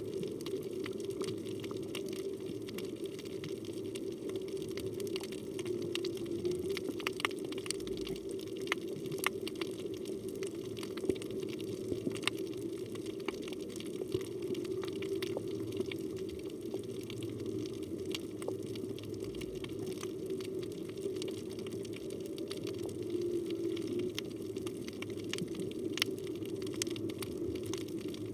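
Underwater reef ambience recorded by a phone in its waterproof housing: a steady low rush of moving water with many scattered sharp clicks and crackles.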